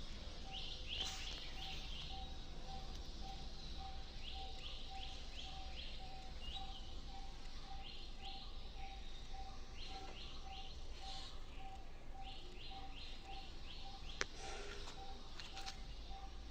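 Birdsong: a bird singing phrases of four or five quick, falling chirps, repeated every couple of seconds, over a steady series of low, evenly spaced notes about three a second and a low rumble. One sharp click about fourteen seconds in.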